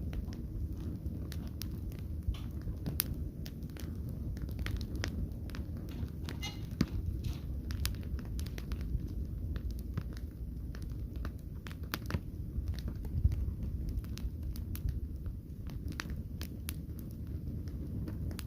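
Wood fire crackling, with sharp irregular pops and snaps over a steady low rumble of burning. A brief faint hiss sounds about six and a half seconds in.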